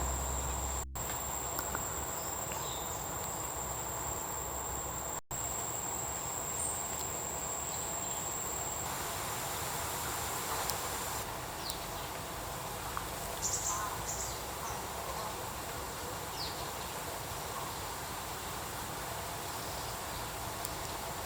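Forest insect ambience: a steady high insect whine that stops about nine seconds in, leaving an even insect hiss with a few faint chirps. The sound drops out briefly twice early on.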